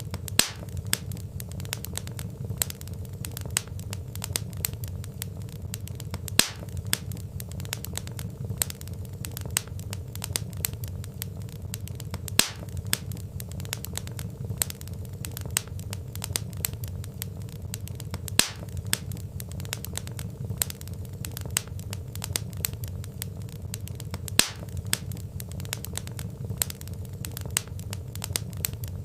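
Wood fire crackling steadily over a low rumble of burning, with many small ticks and a sharper loud pop about every six seconds.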